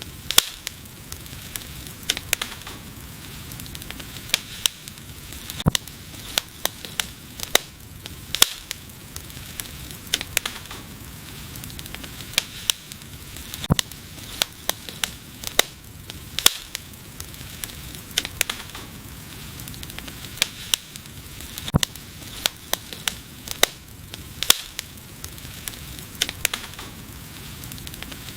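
Wood fire crackling: irregular sharp pops and snaps, some much louder than others, over a steady hiss of the burning flames.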